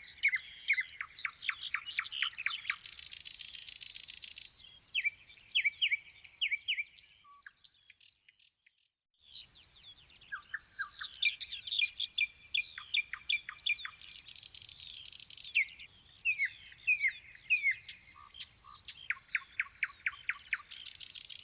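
Songbirds singing and calling: rapid runs of short, down-slurred chirps and trills, several songs overlapping, broken by a near-silent gap of about two seconds a third of the way through.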